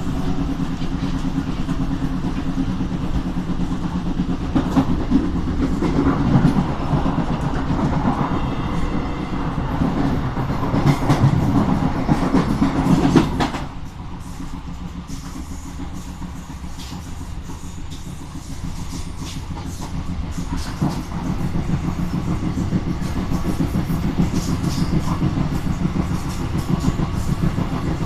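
Train running along the line with steady rumble and wheels clicking over rail joints. About halfway through the noise drops suddenly, then slowly builds back up.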